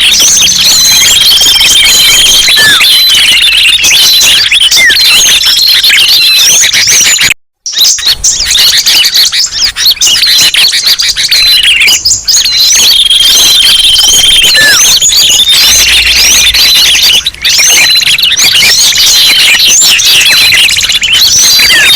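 Dense chorus of many small songbirds chirping and whistling over one another, a loud bird-lure recording played as a loop. It cuts out briefly about seven and a half seconds in.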